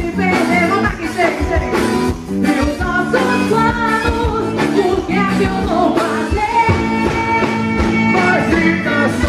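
Live forró band music: held melody lines over a steady drum and bass beat.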